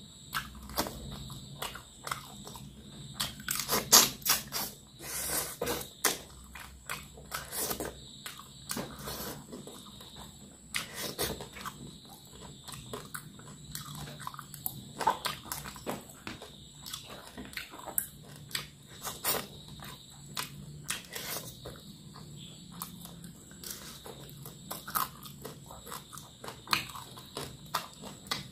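Close-up chewing and crunching of fried fish and rice eaten by hand, with irregular wet mouth clicks and crackles. The sharpest crunch comes about four seconds in.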